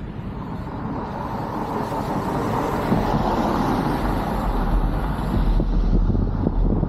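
Wind and road noise rushing over a vehicle's roof-mounted camera, with a deep rumble underneath, swelling steadily louder.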